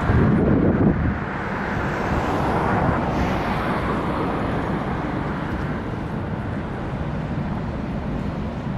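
Wind buffeting the microphone over a steady low rumble, with a strong gust in the first second.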